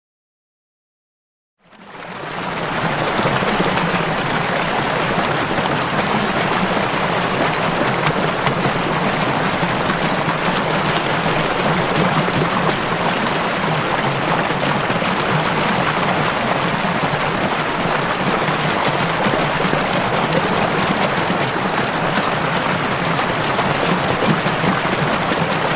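A stream running: a steady rush of water that fades in about two seconds in, after a brief silence.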